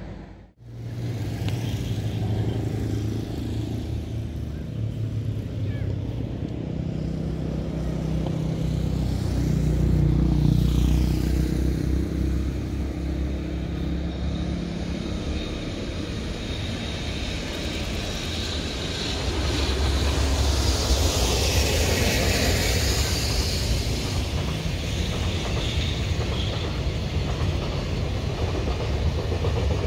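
Freight train running: a low, steady hum with a rushing noise that swells and fades, louder from about twenty seconds in.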